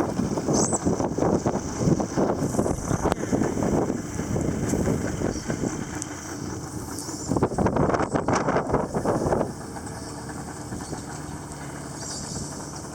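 Motorboat under way, its engine running beneath a loud, uneven rushing of wind and water. About nine and a half seconds in, the rushing drops away, leaving the engine's quieter, steady hum.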